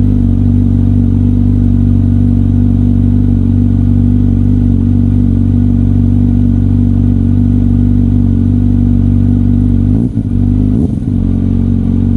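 Kawasaki Z900's inline-four engine, breathing through a LeoVince LV-10 titanium slip-on exhaust, idling steadily during a cold start. About ten seconds in it is blipped twice: the pitch rises quickly and falls back to idle each time.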